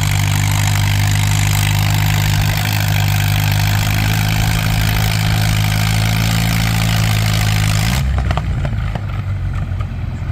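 Antique farm tractor engine running hard under load while pulling the weight-transfer sled, a loud, steady, even pitch. About eight seconds in it drops off sharply, the throttle cut as the sled stops the pull.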